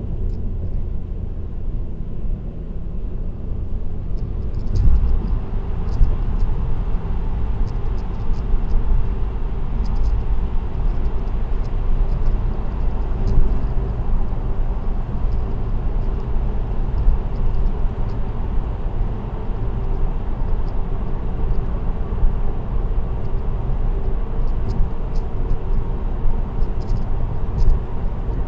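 Steady road noise of a car cruising on an expressway, a continuous low rumble of tyres and engine. It grows louder and rougher about five seconds in, with faint scattered ticks above it.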